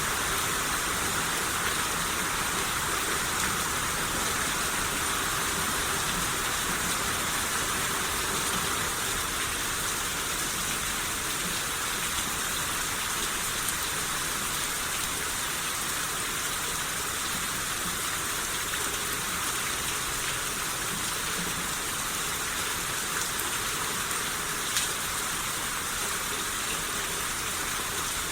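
Steady rain falling in an even hiss, with a few faint sharp drops ticking through it.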